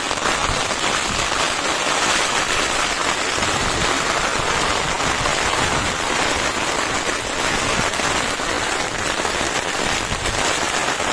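Heavy rain falling steadily: a dense, even hiss of many small drop impacts that holds at one level.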